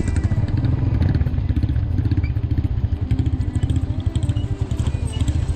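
Motorcycle engine running, a steady low rumble of rapid firing pulses.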